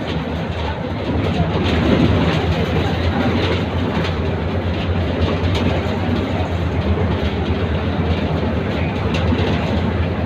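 Inside a moving city bus: a steady low engine drone with road noise and light rattling of the cabin.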